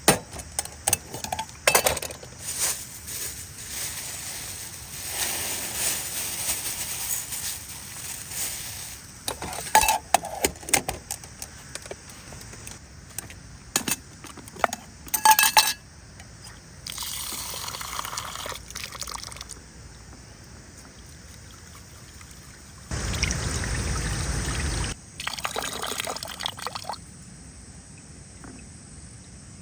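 Liquid being poured in short spells, among clicks and knocks of handled camp gear.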